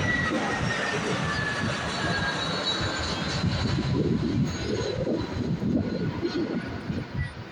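Airbus A320-214 landing, its CFM56 jet engines giving a steady rumble with a slowly falling whine, fading near the end.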